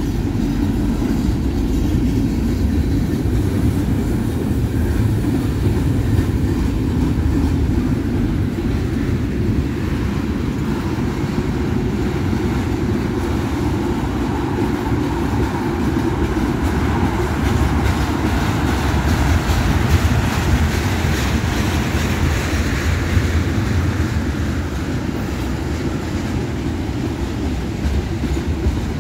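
Freight train of tank cars rolling past, with a steady low rumble of wheels on the rails. A higher rushing noise swells and fades again about halfway through.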